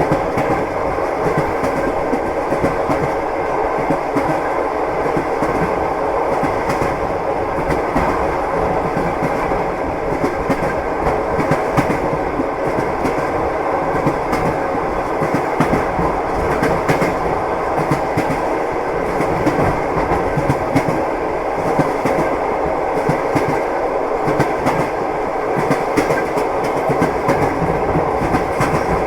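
Train wheels clattering over rail joints as the train runs along at a steady pace, with a constant rumble underneath.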